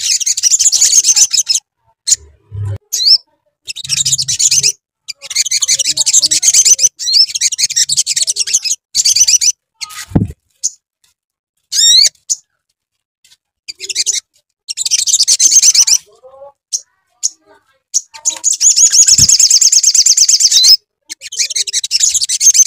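Sogok ontong (little spiderhunter) song: high, rapid chattering trills in bursts of one to three seconds with short pauses between them, played as a lure call to make other birds answer.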